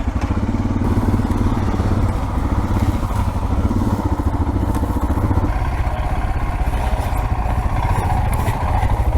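Single-cylinder dual-sport motorcycle engine running with a steady low thumping note, a higher hiss joining it from about halfway through.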